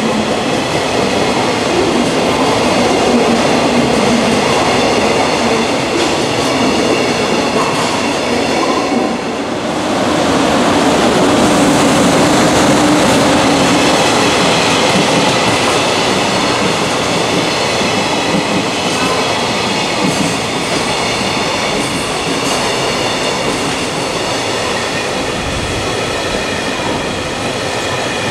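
Freight train passing close by, its wheels rolling steadily on the rails, with a brief dip in loudness about nine seconds in.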